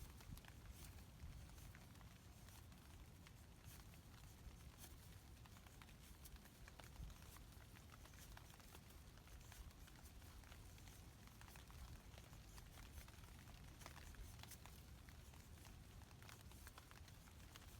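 Faint rain pattering, with scattered irregular drop ticks over a low steady rumble.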